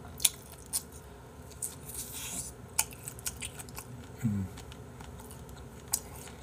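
Close-miked wet chewing and lip-smacking on komochi yariika, soy-marinated squid stuffed with fish roe: a run of sharp smacks and clicks, with a short low hum a little past four seconds in.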